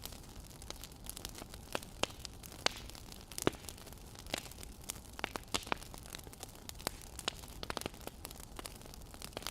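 Wood fire crackling: irregular sharp pops and snaps over a low steady hiss, with the loudest pop about three and a half seconds in.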